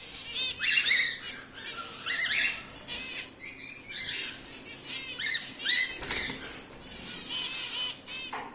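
Cockatiels chirping: a string of short, repeated, arching calls, loudest about a second and two seconds in.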